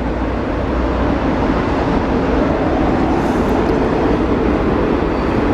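Freight train of autorack cars rolling past, a steady loud rumble of wheels on rail.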